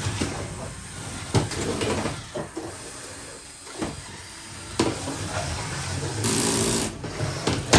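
Lego combat robots running in the arena: a steady motor hum with sharp plastic knocks and clatter about one and a half, five and near eight seconds in, and a brief hiss around six seconds in.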